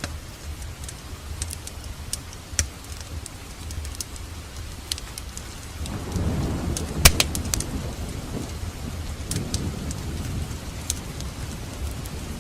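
Wood fire in a fireplace crackling, with irregular sharp pops over a low steady rumble. About six seconds in the sound swells louder for a couple of seconds, and one sharp pop stands out a second later.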